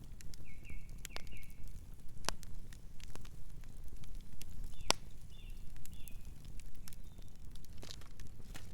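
Campfire crackling: irregular sharp pops and snaps over a low steady rumble, the loudest pop about five seconds in. A night bird chirps softly a couple of times near the start and again a few times just past the middle.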